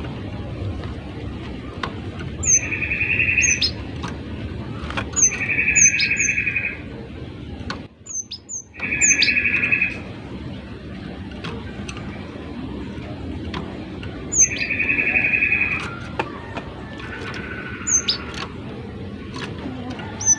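Cinereous tit (gelatik batu) calling: one to three short, high, thin notes, each time followed by a harsh buzzy churr about a second long, five times with pauses between, the last one fainter.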